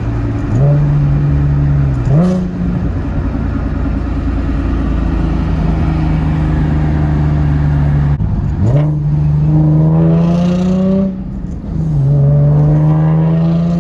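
Nissan 370Z's 3.7-litre VQ V6 through a Tomei exhaust with a resonated Motordyne Y-pipe, heard from inside the cabin with the windows up. Three rev-matched downshifts each make the engine note jump sharply up in pitch. Then the engine pulls up through the revs, drops at a shift, and climbs again near the end.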